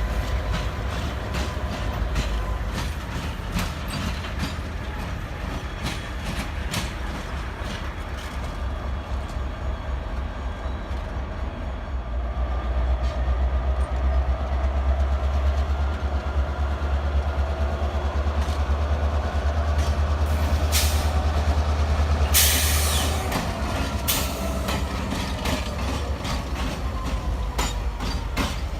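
Freight train rolling by: a steady low rumble with the wheels clicking over rail joints, faint metallic ringing from the wheels, and a short loud hiss about two-thirds of the way through.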